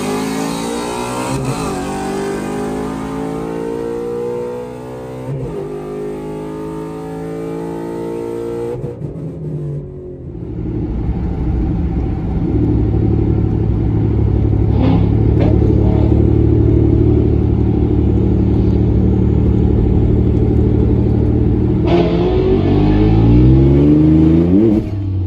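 V8 race cars accelerating hard at full throttle, engine pitch climbing through the gears with breaks at the shifts. About ten seconds in the sound breaks off, then comes back as a loud steady engine drone, and near the end the pitch climbs again under another pull.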